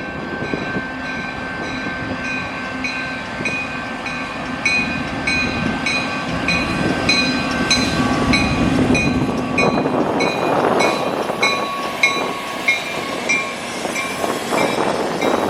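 Canadian National freight train passing: engine and rolling cars rumbling and rattling, over which a bell rings steadily at a little under two strokes a second. The wheel and car noise grows louder and rougher about ten seconds in.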